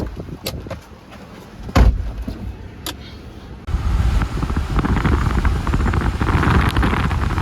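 A few sharp knocks and thumps inside a vehicle on the move. About halfway through, the sound switches suddenly to a loud, steady rush of wind and rain with a deep rumble.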